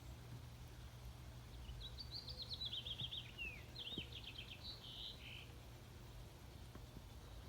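A songbird sings one high phrase of quick chirps, trills and downward slurs, starting a little under two seconds in and lasting about four seconds. A steady low hum runs underneath.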